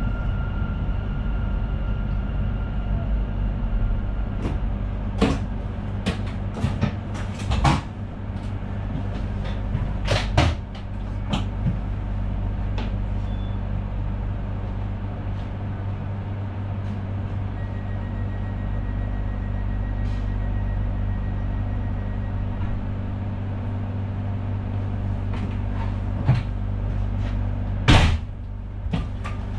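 Cab of an NS Sprinter Nieuwe Generatie (SNG) electric train: a steady low hum with scattered sharp clicks and knocks at irregular intervals, the loudest near the end. A faint thin steady tone sounds briefly near the start and again in the middle.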